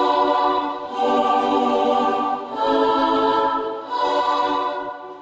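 Korg 01/W FD synthesizer's choir voice played as a slow run of held chords that change about every second and a half, fading out near the end.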